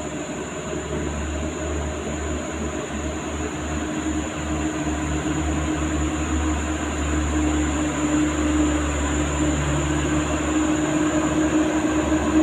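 Heavy truck's diesel engine running with a steady low drone, growing slowly louder.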